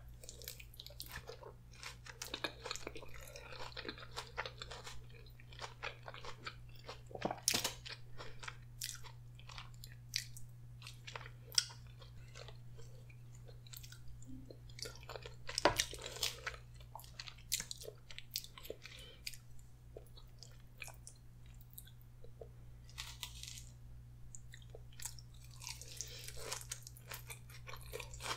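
Close-miked eating sounds: wet chewing of spaghetti with meat sauce, with crunching from the Caesar salad eaten along with it.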